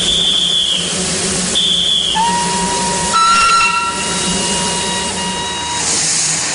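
Darjeeling Himalayan Railway steam locomotive whistling: two short high blasts, then a longer, lower whistle of several tones held for about three and a half seconds, over a steady hiss of steam.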